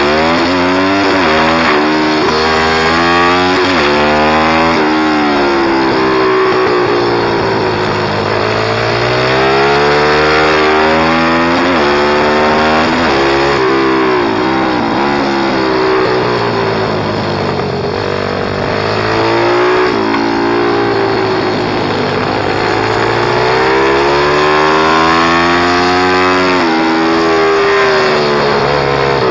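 Pit bike engine revving, its pitch climbing and dropping again and again, loud throughout.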